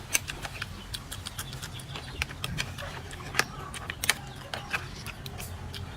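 A string of irregular light clicks and taps, a few of them sharper, over a steady low rumble.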